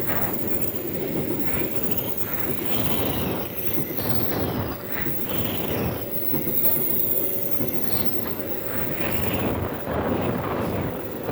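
A train passing over a level crossing close by: a steady rumble of cars and wheels on the rails, with high-pitched wheel squeal gliding above it.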